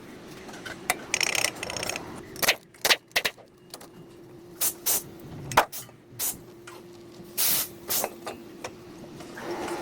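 Workshop brake work: a string of sharp metallic clicks and knocks from hand tools on brake parts, with a rattly stretch about a second in and a short spray-like hiss about seven and a half seconds in, over a faint steady hum.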